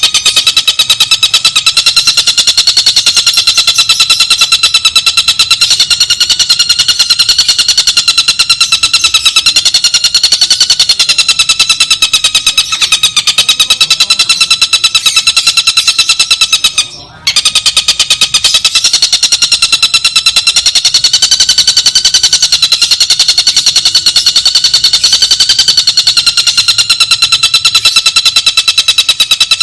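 Tengkek buto kingfisher calling in a rapid, continuous rattling trill at a steady, slightly wavering pitch, broken once briefly just past halfway.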